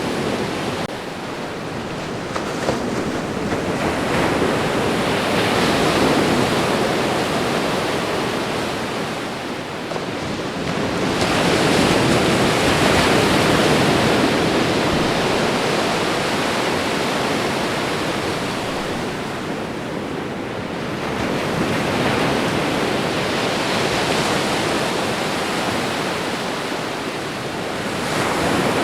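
Ocean waves breaking and washing onto the shore, a continuous rush of surf that swells and ebbs in slow surges several seconds apart.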